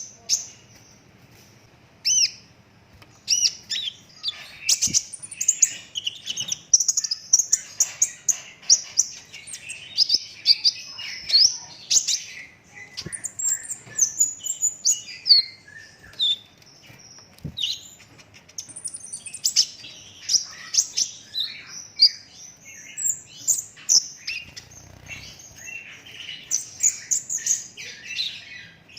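Young kolibri ninja sunbird singing continuously: long, dense runs of rapid high chirps and trills with quick pitch sweeps, the fast rolling, tightly packed song that bird keepers call gacor.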